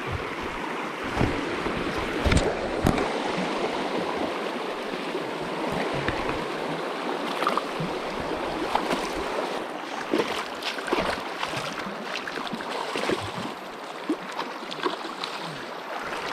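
River water rushing over stones in a steady wash, with scattered short knocks and bumps throughout.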